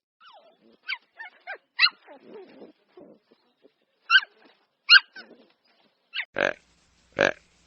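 A dog yelping and whimpering in short, high, sliding cries. From about six seconds in, a series of louder, longer calls from an animal begins, about one every 0.8 s.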